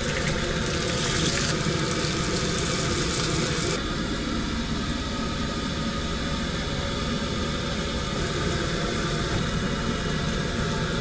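A steady mechanical drone from a running motor, with a high hiss over it that drops away about four seconds in.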